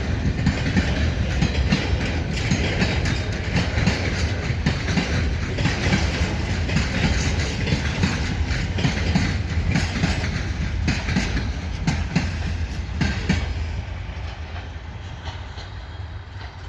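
Freight train wagons rolling past, their wheels clattering over rail joints in a rapid, uneven clickety-clack over a steady rumble. The sound dies away over the last few seconds.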